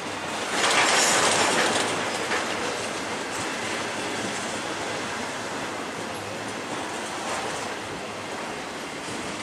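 BNSF intermodal freight train with highway trailers on flatcars rolling past, its steel wheels running on the rails with steady rumble and rattle. The noise swells louder about half a second in for a second or so, then settles back.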